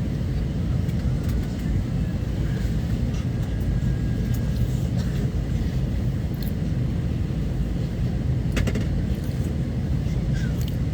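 Steady low rumble of a moving vehicle heard from inside its cabin, with a brief sharp rattle about two-thirds of the way through.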